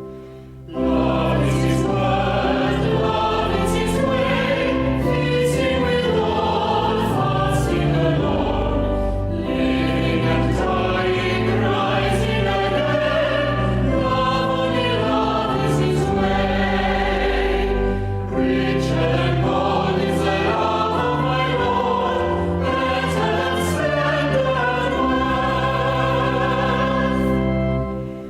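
Choir singing with organ accompaniment, a sacred piece with held low organ notes under the voices; the music begins just under a second in and pauses near the end.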